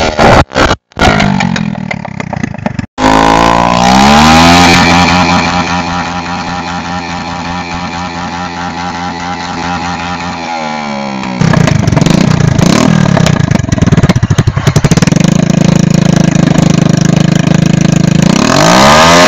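Motorcycle engine revving hard, its pitch climbing, holding at high revs and dropping back, then climbing again near the end. Partway through comes a stretch of rapid, irregular popping and crackling from the exhaust. The sound breaks off abruptly twice in the first few seconds.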